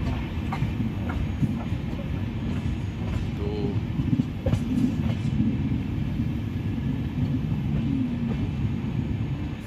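Passenger train coach wheels running over the rails and points on the approach to a station, heard from the open coach door: a steady rumble broken by irregular clicks as the wheels cross rail joints.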